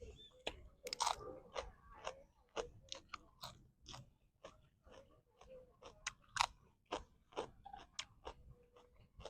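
A person chewing and crunching food close to the microphone: irregular wet mouth clicks and crunches, two or three a second.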